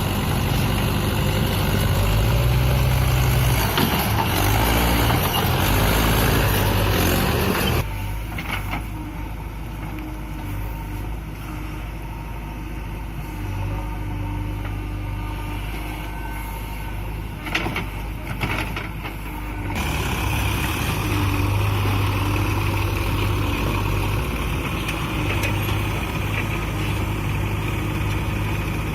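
Mahindra 585 DI tractor's diesel engine working hard under load. It is loudest for the first few seconds, drops quieter about eight seconds in, and picks up again about twenty seconds in.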